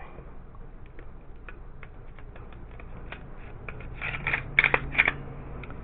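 Glock 17 pistol being handled after a trigger install: a run of light, scattered mechanical clicks, with a few louder, sharper clicks about four to five seconds in.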